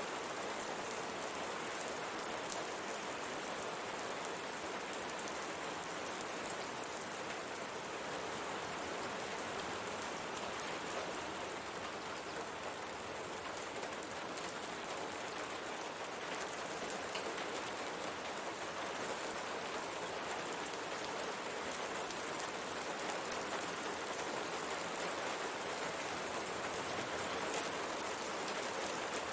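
Steady rain falling on a window, a continuous even hiss of many drops pattering on the glass.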